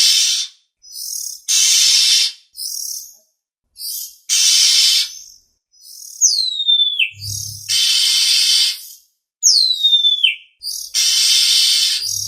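Oriental magpie-robin (kacer) calling: harsh, rasping bursts every two to three seconds, with high whistles between them that slide steeply down in pitch.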